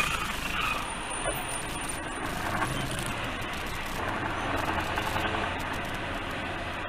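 Steady vehicle and road noise with no distinct events.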